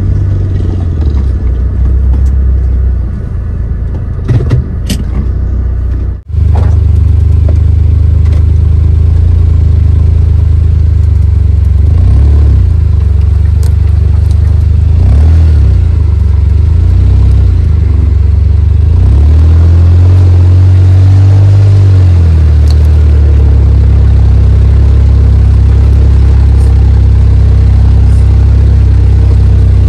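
Suzuki Jimny JB23's turbocharged 660 cc three-cylinder engine running off-road, with a deep steady rumble and revs rising and falling under load. The sound cuts out sharply for a moment about six seconds in.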